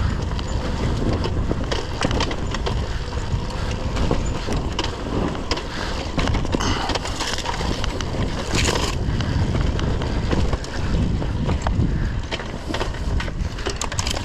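Dirt bike riding over rough, rocky ground, heard as a steady low rumble with wind on the microphone and many small knocks and crunches from stones under the tyres.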